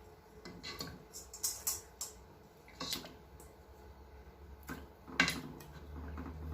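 Metal cookware clinking and knocking: a few separate knocks and clinks of a cooking pot and utensils, with the loudest knock a little past five seconds in.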